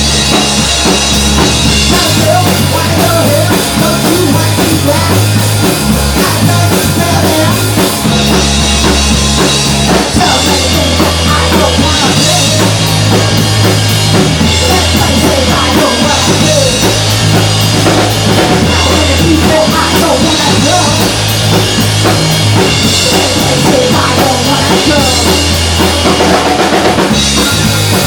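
Rock music played loud, with a full drum kit keeping a steady beat and a bass line that changes note every second or two.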